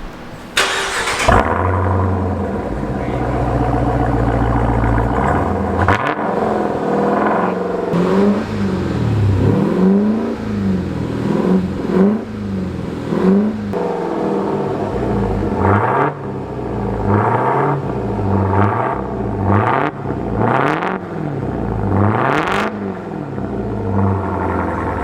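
Dodge Durango SRT Hellcat's supercharged 6.2-litre V8 through a mid-muffler-deleted exhaust: it fires up with a loud flare about half a second in and settles into a rumbling idle. From about eight seconds on it is revved again and again, each rev rising and falling in pitch.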